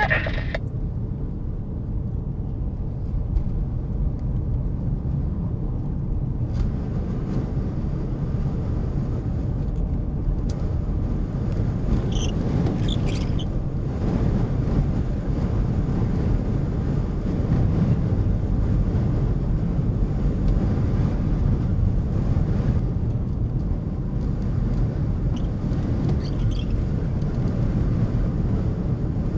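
Strong wind buffeting a vehicle and the microphone, a steady low rumble.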